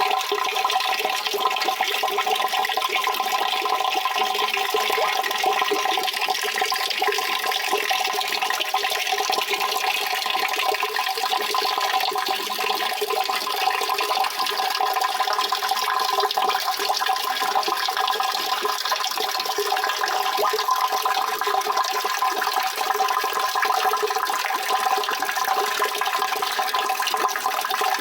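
Steady rushing water, flowing continuously at an even level with a hollow, resonant ring in its rush.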